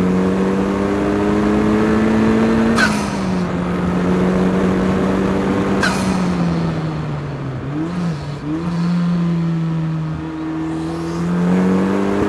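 Ariel Atom 4's turbocharged Honda Civic Type R four-cylinder under hard acceleration, its pitch climbing and then dropping at two quick upshifts about three seconds apart, each with a short sharp sound. It then winds down with two brief blips of revs around eight seconds in, and pulls up in pitch again.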